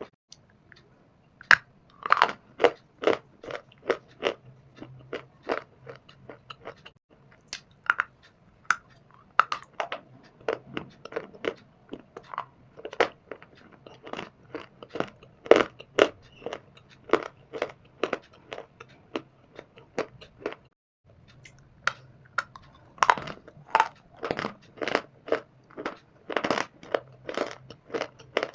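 Dry shale stone and clay crunching in a rapid run of sharp, crisp crunches, about two or three a second, with a brief silence about twenty seconds in.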